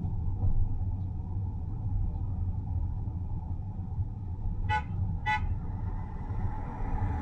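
A vehicle horn sounds two short toots about half a second apart, near the middle, over the steady low rumble of a car driving on the road.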